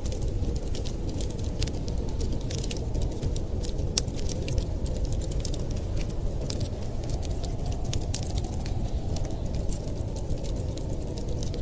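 Wood fire crackling in a fireplace, many small sharp pops at irregular moments, one louder pop about four seconds in, over a steady low rush of winter storm wind.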